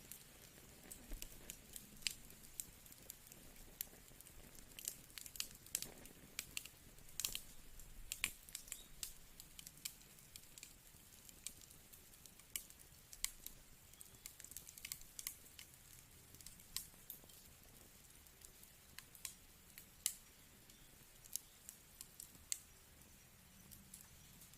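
Fireplace fire crackling softly: irregular sharp pops and snaps over a faint steady hiss, busiest in the first third.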